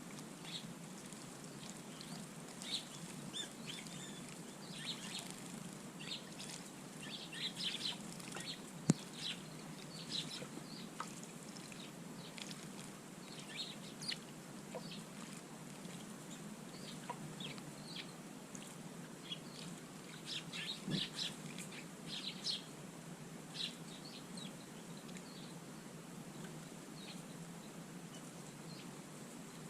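Small birds giving short chirps, scattered throughout and bunched in two busier spells; a single sharp click about a third of the way in.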